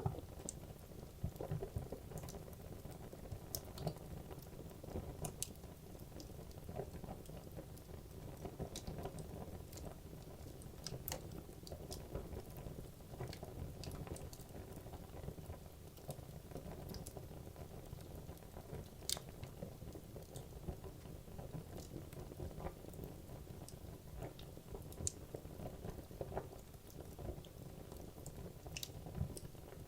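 Wood logs burning in a fireplace: a steady low flame rumble with irregular crackles and scattered sharp pops.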